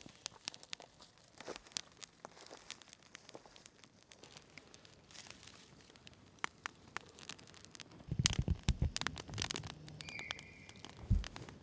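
Rain patter and a campfire crackling, heard as scattered sharp ticks. About eight seconds in, louder rustling and dull knocks of something being handled come in, and a brief high steady tone sounds about ten seconds in.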